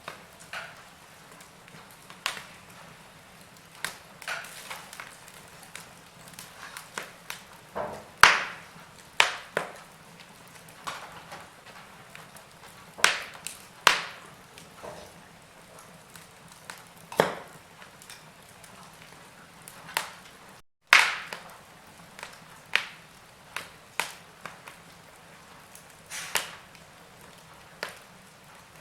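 Wood fire in a fireplace crackling, with irregular sharp pops over a faint steady hiss. The sound cuts out for a moment about twenty seconds in.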